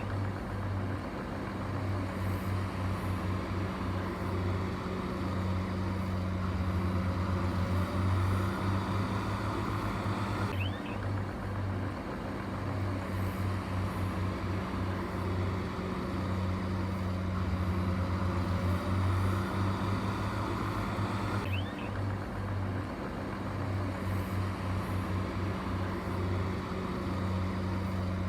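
A heavy earthmoving machine's diesel engine running steadily with a deep drone. A brief high squeak comes about 11 and 22 seconds in.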